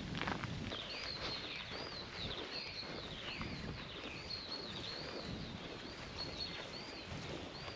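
A songbird singing a long run of high, arched chirps, about two a second, over a steady outdoor background hiss.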